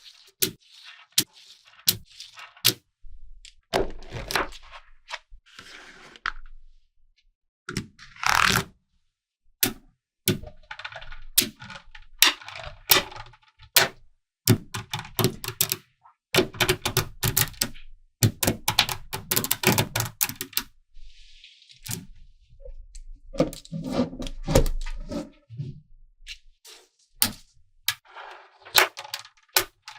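Small magnetic balls snapping together with sharp clicks, at first one at a time and then in dense runs of rapid clicking and rattling.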